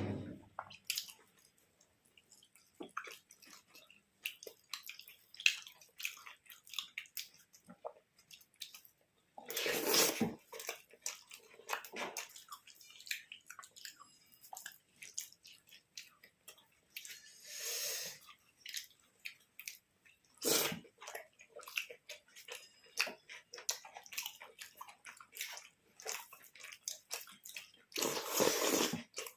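Close-up sounds of a person eating: chewing with wet, squishy mouth noises and many small clicks. A few louder, longer rustling bursts break in, about ten seconds in, near the middle and near the end.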